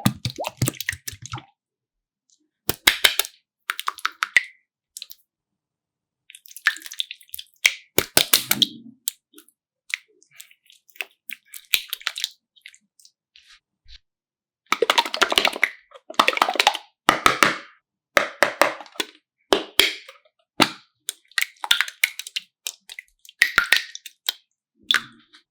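Slime being squeezed and pressed by hand, giving clusters of crackling clicks and small wet pops in bursts with short pauses between them.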